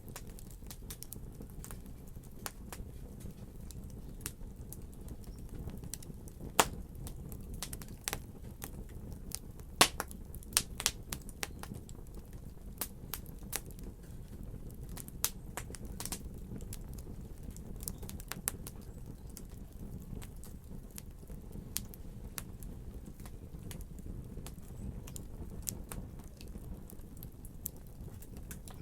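Fire in a fireplace crackling: irregular sharp pops and snaps over a low steady rumble, with the loudest pops about 7 seconds in and a quick run of them around 10 seconds.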